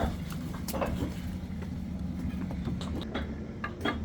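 A motor running steadily with a low hum, with scattered clicks and knocks over it and a few sharper knocks near the end.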